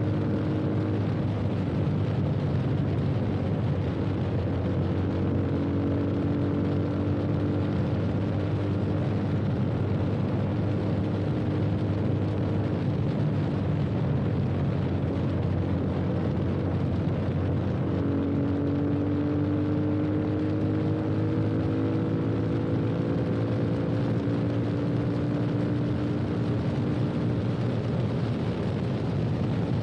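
Yamaha FZ25's single-cylinder engine running through a full aftermarket exhaust with an Akrapovič-replica slip-on, cruising at a steady throttle. Its note climbs slowly in the second half as the bike gathers speed, over a steady rush of wind and road noise.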